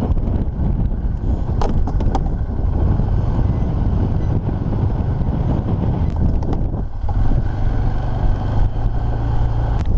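ATV engine running as the four-wheeler is driven, with heavy wind buffeting the microphone. A couple of sharp clicks come about two seconds in.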